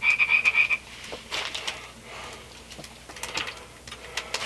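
A plastic food package being handled and opened: a rapid rasping for about the first second, then scattered rustles and light clicks.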